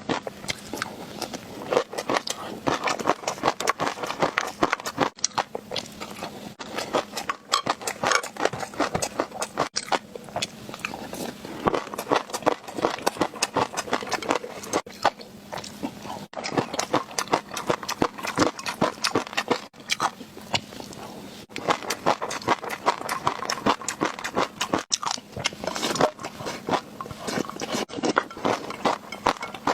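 Close-miked eating sounds for ASMR: rapid, wet clicking chewing and biting, in runs of a few seconds with short pauses between.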